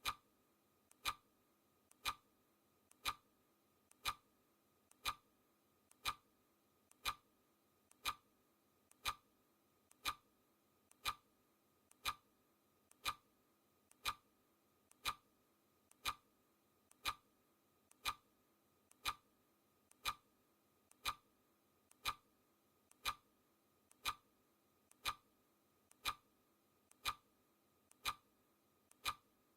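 Clock ticking sound effect: a sharp tick once each second, evenly spaced, with a much fainter click between the ticks.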